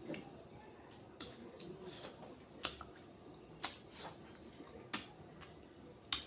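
Close-miked eating sounds: a person chewing rice and egg, with several sharp, short mouth clicks or smacks spread about a second apart.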